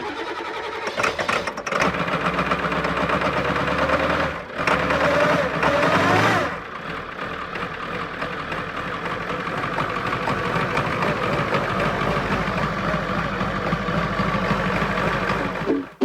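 Ford F350 pickup engine running, revving up and falling back briefly a few seconds in, then idling steadily until it cuts off abruptly near the end.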